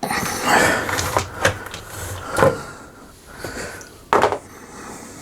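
Plastic laminator casing being handled after its back is taken off: scraping and clattering with several sharp knocks.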